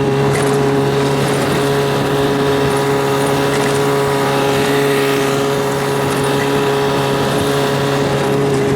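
Boat's outboard engine running at a steady pitch as the boat is under way.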